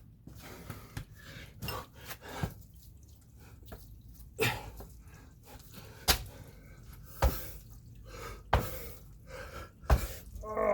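Thuds of a person landing and striking the floor during a burpee and kettlebell jump-squat rep, four of them evenly spaced about a second and a quarter apart in the second half.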